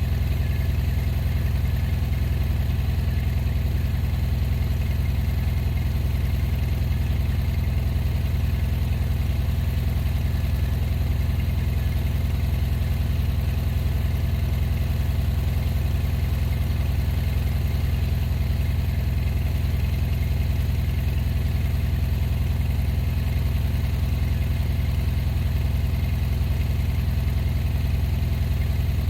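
A gasoline engine of the plowing vehicle running at a steady idle, low-pitched and unchanging, with no revving.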